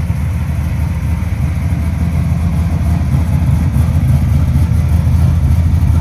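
Big-block 540 cubic-inch Chevrolet V8 in a 1969 Chevelle drag car, idling steadily with a low, even exhaust note.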